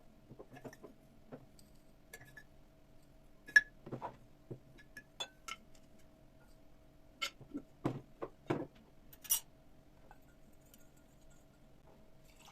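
Glassware and dishes being handled: scattered light clinks and knocks, the sharpest about three and a half seconds in and a quick run of them in the second half, over a faint steady hum.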